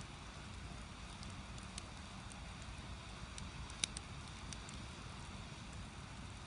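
Firewood burning in a traditional Korean agungi firebox: a steady low rumble of flame with scattered crackles and small pops, one sharper pop about four seconds in.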